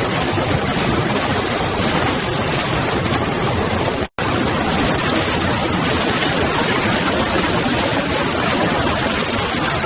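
Fast-flowing floodwater rushing, a steady, dense wash of noise that cuts out for an instant about four seconds in.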